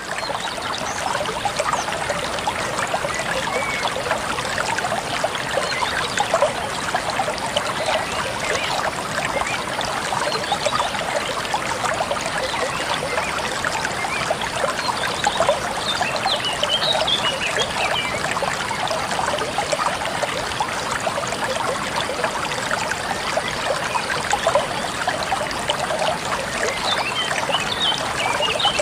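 Small waterfall splashing and trickling steadily into a pool, with a couple of short, high chirps about halfway and near the end.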